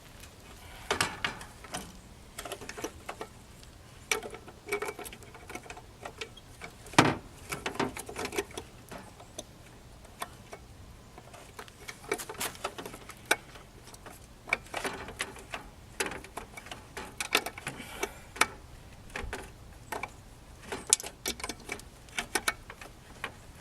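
Irregular clicks, taps and short rattles of a vehicle light assembly being handled and worked into place by hand.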